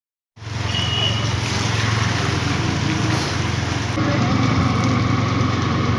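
Motorcycle riding in the rain: the engine runs steadily under a heavy hiss of wind and rain on the microphone. The sound changes abruptly about four seconds in.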